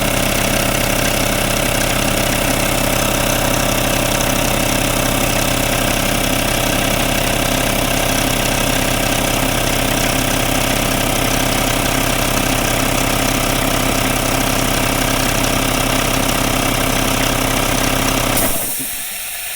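Craftsman 5 HP 20-gallon air compressor (Sears model 919.716850) running steadily as it pumps up its tank. Near the end it cuts out suddenly on reaching full pressure, and a hiss of air follows.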